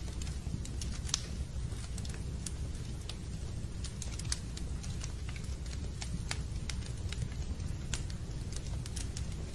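Fireplace crackling: a steady low rumble of the fire with irregular sharp pops and snaps, about two a second, the sharpest about a second in.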